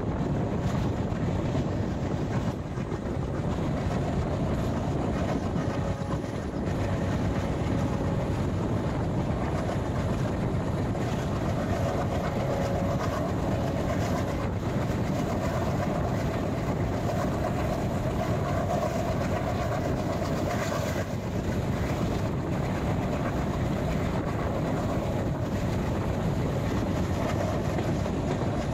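Express passenger train running along the rails, heard from on board: a steady rumble with wheel clatter and a wavering mid-pitched whine that swells in the middle.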